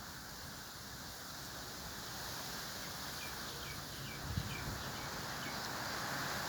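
A small bird gives a quick series of about eight short, high chirps starting about three seconds in, over a steady outdoor hiss that grows louder. There is a brief low thump midway.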